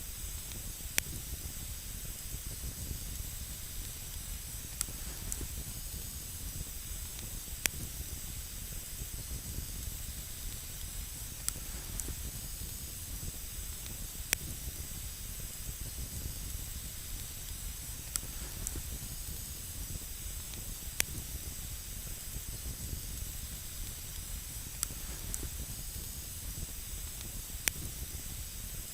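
Wood campfire burning: a steady hiss over a low rumble, with single sharp crackles every couple of seconds.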